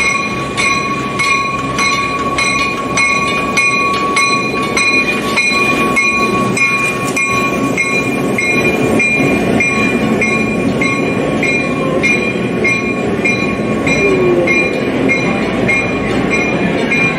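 A Santa Cruz, Big Trees & Pacific Railway diesel locomotive and its passenger cars rolling slowly past on street track, the wheels and cars rumbling steadily. Over it a warning bell rings evenly, about three strikes a second.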